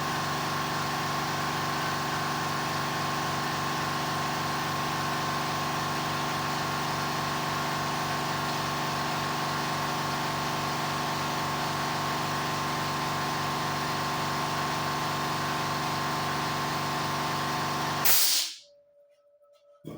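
Steady whir of a small motor with a hiss of rushing air, holding one pitch throughout; about eighteen seconds in it swells briefly, then cuts off abruptly.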